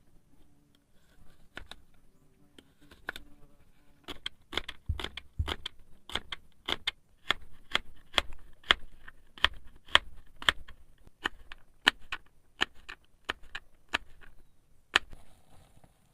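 A steady series of sharp knocks, about two a second, after a few faint taps at the start, stopping about a second before the end.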